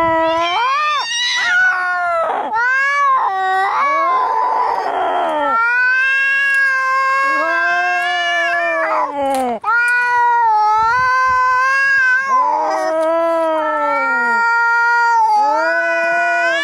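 Angry cats caterwauling in a fight: long, wavering yowls that rise and fall in pitch, with a hiss about four seconds in.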